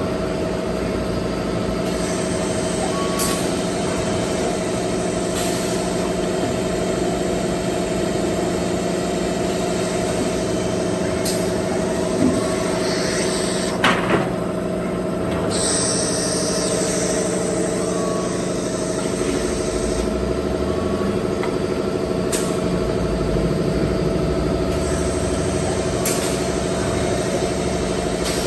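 Six-sided CNC drilling machine and its robot running: a steady mechanical hum with several fixed tones, occasional clicks, and a short sharp hiss about 14 seconds in.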